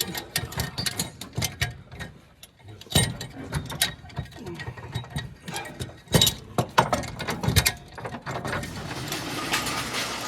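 Ratchet tie-down strap being cranked tight, its pawl clicking in irregular runs with a few louder clunks. A steadier hiss takes over near the end.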